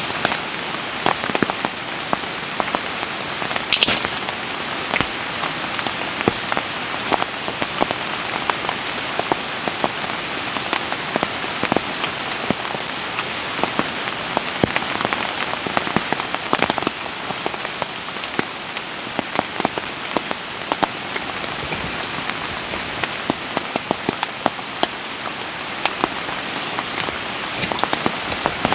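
Steady rain falling, with a dense patter of individual drops striking sharply on a surface.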